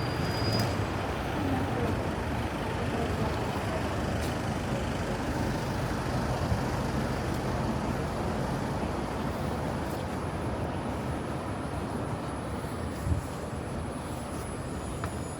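Steady city street traffic noise, with a brief high squeal about half a second in and a single knock near the end.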